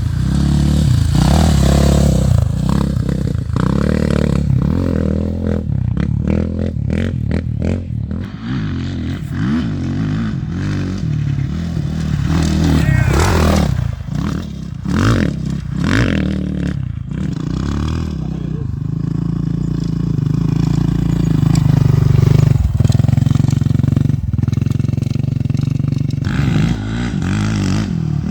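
Off-road race vehicle engines, Baja 1000 motorcycles and quads, running hard and revving as they pass at speed, the engine pitch rising and falling, with clattering and scraping throughout.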